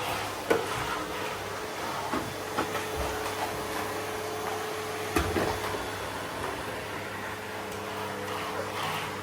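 Vacuum cleaner running steadily with a constant hum, with a few sharp knocks about half a second, two and a half and five seconds in.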